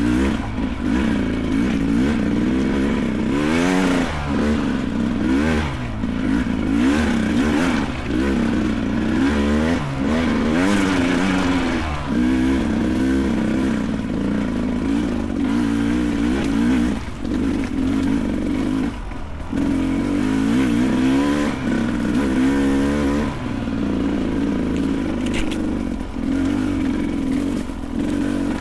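Beta 300 Race single-cylinder two-stroke dirt bike engine under load, its pitch rising and falling over and over as the throttle is worked on and off, with a few short drops.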